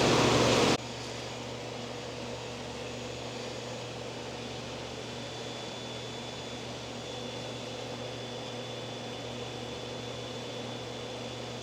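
Steady mechanical hum and hiss of ventilation or fans, with a faint high whine over it. It drops abruptly to a lower level just under a second in, then holds steady.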